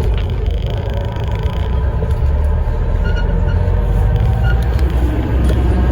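Inside a moving Alexander Dennis Enviro400 MMC hybrid double-decker bus: a steady low rumble from the drivetrain and road, with a faint steady whine.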